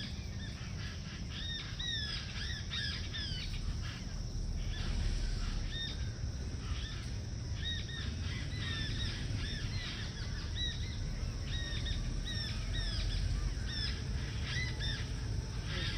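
Birds chirping in a busy, repeated chorus of short, high, down-slurred calls, over a steady low rumble.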